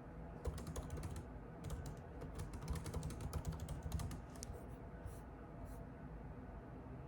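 Typing on a computer keyboard: quick runs of key clicks that thin out to a few single clicks about halfway through, then stop, leaving a low steady hum.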